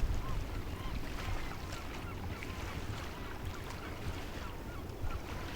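Wind and water noise around a small boat, with many short high squeaks or chirps scattered throughout.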